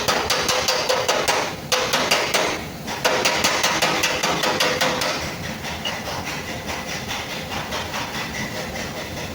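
Fast, even hammer taps on a sheet-metal car fender panel, the metal ringing with each strike, as the panel is beaten back into shape. The tapping stops briefly twice early on and turns softer about halfway through.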